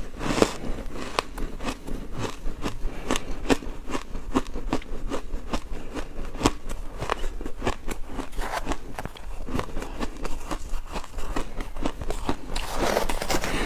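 Ice being chewed and crunched between teeth in a steady run of sharp cracks, about two to three a second. A louder, fuller crunch comes right at the start and again near the end as a new piece is bitten.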